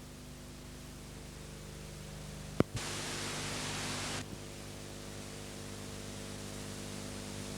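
Steady hiss and low hum of VHS tape playback after the programme has ended. A sharp click comes about two and a half seconds in, followed by about a second and a half of louder static hiss.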